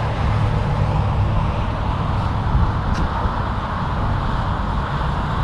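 Steady rumble of highway traffic passing at speed, with no single vehicle standing out.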